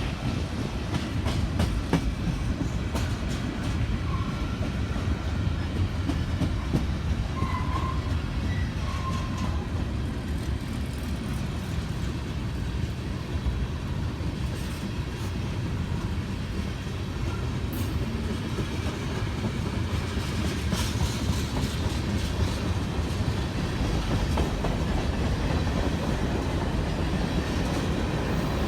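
Freight train rolling past: a steady rumble of the cars with a running clickety-clack of wheels over rail joints.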